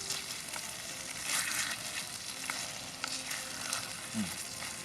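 Mapo tofu sizzling in a pan: a steady hiss with a few brief louder surges and small scattered pops.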